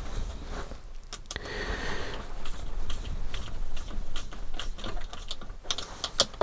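Irregular light clicks and taps of small plastic RC car kit suspension parts and a hand tool being handled while screw pins are fitted.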